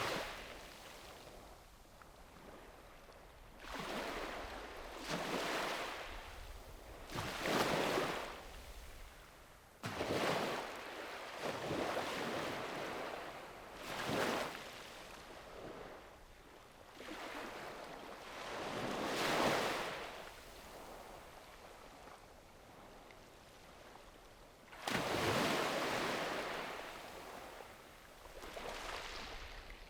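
Sea waves breaking and washing up the beach, one surge every few seconds with quieter lulls between; a sudden larger wave crashes about 25 seconds in.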